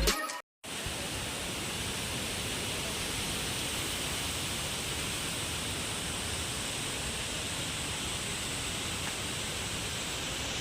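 Steady rushing of a hill river's flowing water, starting abruptly about half a second in.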